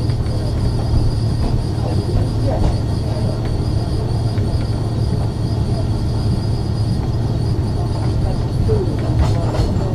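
Ex-Liverpool Corporation tram 869 running along the track, heard from on board: a steady rumble of wheels and running gear with a faint high whine, scattered clicks, and a brief wheel squeal near the end.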